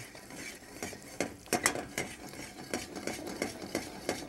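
Floured pork chops sizzling as they shallow-fry in oil in a wok, with a utensil scraping and clicking against the wok as the pieces are moved around; a few sharper clinks about a second and a half in.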